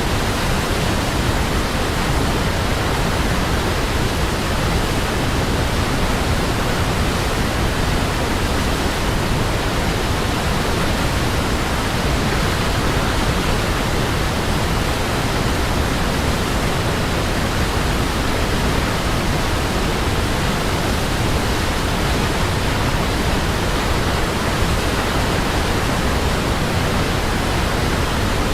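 Waterfall: water falling in a steady, even rush, deep and hissing at once, with no change in level.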